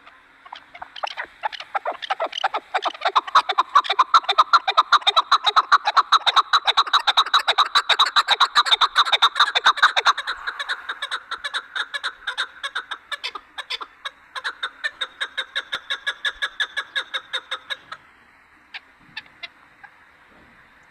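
Chukar partridge calling: a long, rapid series of chuck notes, several a second, loudest in the first half, then softer, stopping a few seconds before the end.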